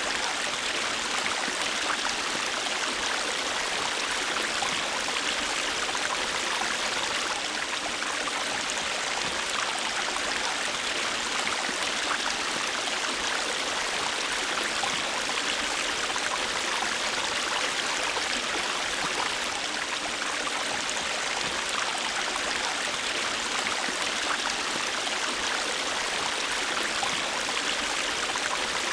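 River water flowing and rushing steadily over rocks, an even hiss-like sound with no breaks.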